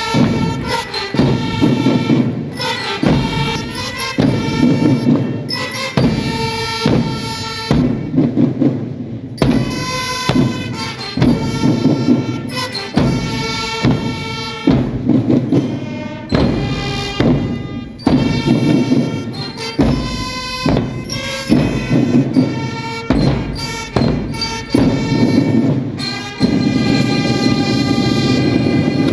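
Marching drum band playing: drums under trumpets and bell lyre, in short phrases with brief breaks.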